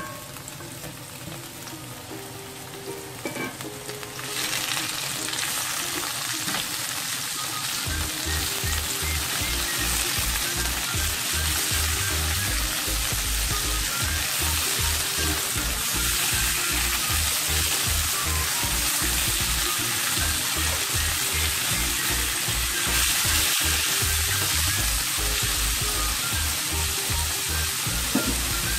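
Zucchini and onion slices sizzling in hot oil in a frying pan as they are stir-fried and turned with a silicone spatula. The sizzle gets louder about four seconds in and then holds steady.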